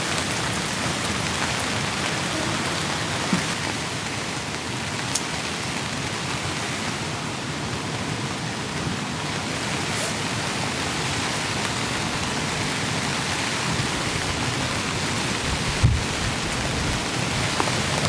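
Heavy rain falling steadily on the fabric of a tent, an even hiss of drops on the canvas, with a few light ticks and one low thump near the end.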